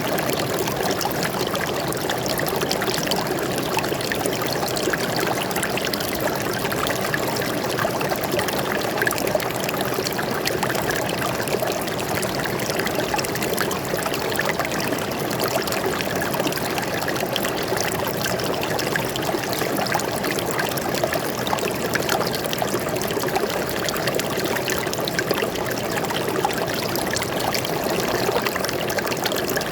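Water flowing steadily over rocks in a forest stream, a continuous even rush with a trickling edge.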